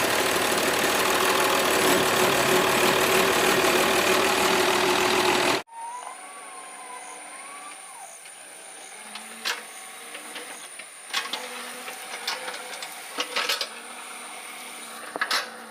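Doosan 140 excavator's diesel engine running loud and steady, cut off abruptly about five and a half seconds in. A much quieter stretch follows, with a faint steady high whine and scattered sharp clicks and knocks.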